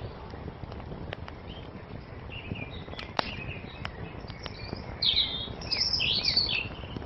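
Wood fire crackling with scattered sharp pops over a steady low rush, while small birds chirp and twitter, loudest in a burst of song about five seconds in.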